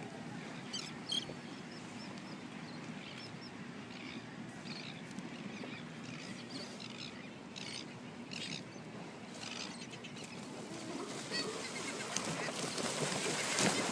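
Scattered short, high animal calls over a steady hiss of wind and water. The hiss grows louder near the end.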